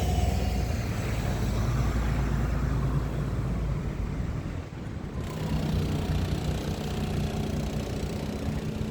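Bus engines running: a heavy low rumble that eases off about four seconds in, followed by a steady low hum of an engine idling.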